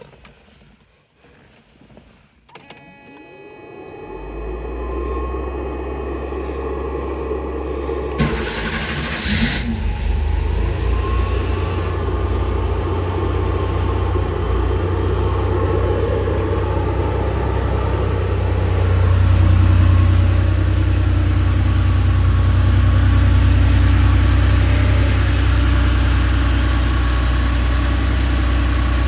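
1989 Porsche 911's air-cooled flat-six cold-starting: it fires about three seconds in and settles into a steady idle. A brief hiss sounds around eight seconds in.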